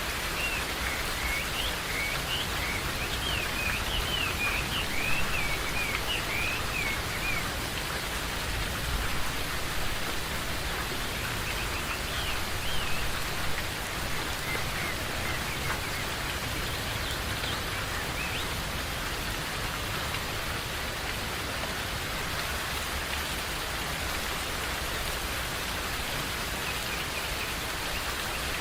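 Steady rain falling in a forest, with birds chirping over it, a quick run of short calls in the first several seconds and a few more about halfway through.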